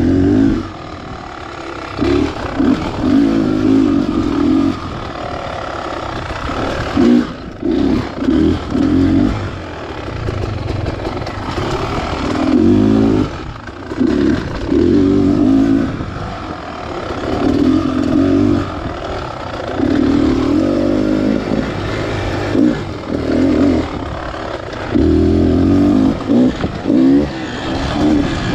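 Beta Xtrainer 300 two-stroke dirt bike engine being ridden, revving up in repeated throttle bursts and dropping back between them, with a run of short quick blips about a quarter of the way in.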